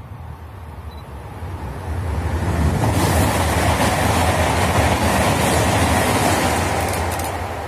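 Frecciarossa 1000 high-speed electric train passing at speed: a rush of wheel and air noise swells over the first couple of seconds, holds loud for about four seconds with a few light clicks, then begins to fade near the end.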